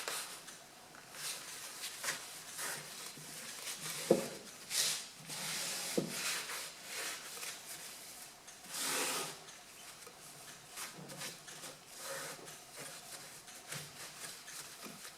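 Irregular rubbing and scraping handling noises, with a light knock about four seconds in and another about six seconds in.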